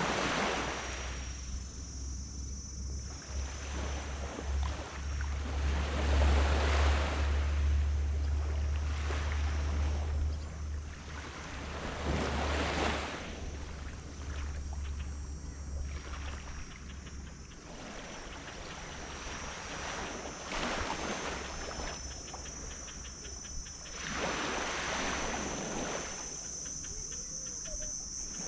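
Small tropical waves breaking and washing up on a sand beach in repeated surges every few seconds. A low steady motor drone, typical of a passing boat, underlies the first half and stops a little past halfway. A steady high buzz of insects runs throughout.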